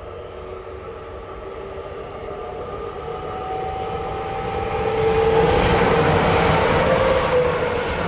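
Electric train approaching and passing close by, growing steadily louder to a peak about five to seven seconds in, with a steady whine over the rush of the wheels.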